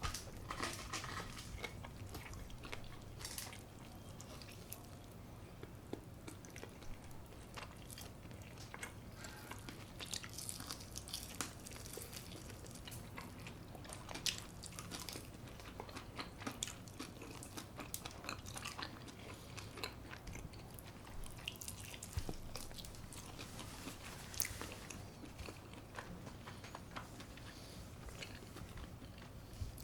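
Close-miked eating ASMR: crunchy bites into crispy brown-rice-coated baked chicken and chewing, with irregular sharp crackles throughout.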